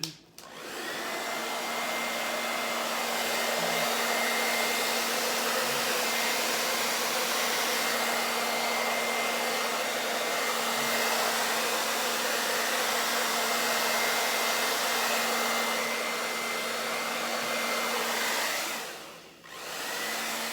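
Handheld hair dryer blowing: switched on just after the start and running steadily, a rushing of air with a thin whine. It cuts out briefly about a second and a half before the end and comes back on.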